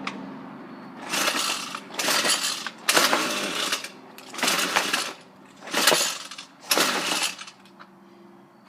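Recoil starter cord of a Ryobi two-stroke string trimmer yanked about six times in quick succession, roughly once a second, with the engine not catching on a cold start.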